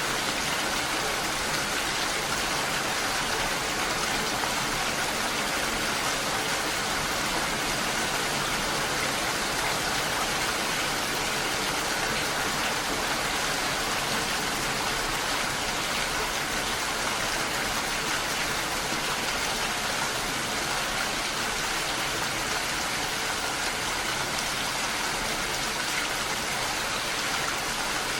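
Steady rain falling: an even hiss with a fine patter of drops that never lets up.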